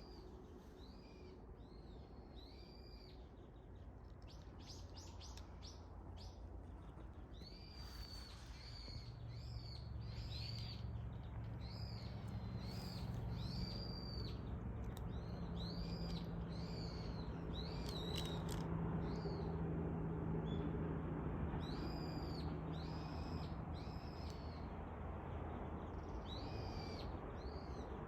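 Birds chirping outdoors: many short, high-pitched arched calls repeating throughout. Underneath is a low steady hum that grows louder about a third of the way in and eases off near the end.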